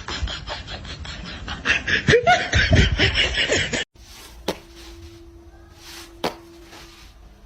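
A person laughing hard in rapid bursts, cut off abruptly about four seconds in; then a few sharp clicks over a faint steady hum.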